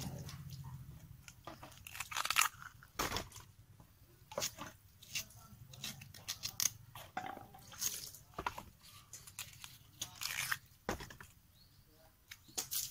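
A person eating crunchy food close to the microphone: irregular crisp crunches of biting and chewing, several to a second at times, with short pauses between.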